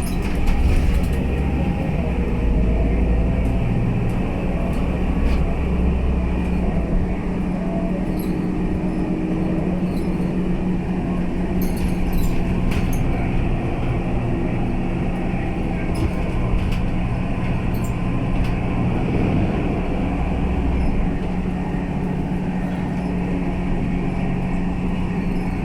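Scania K320UA bus running on the road: a steady engine drone with a low rumble that eases off twice, and scattered clicks and rattles.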